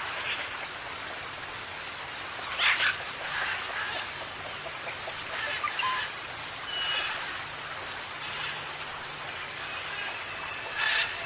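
Parrots calling now and then: short squawks and chirps with a few brief whistles, the loudest about two and a half seconds in and near the end, over a steady hiss.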